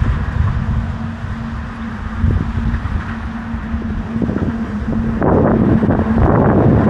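Wind buffeting the microphone, with a steady low hum underneath; the wind gets louder and rougher about five seconds in.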